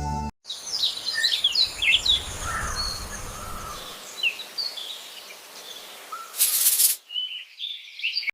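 AI-generated birdsong: many birds chirping and trilling in quick overlapping calls over a low rumble. About six seconds in, a short burst of hiss cuts across, and then the chirping resumes.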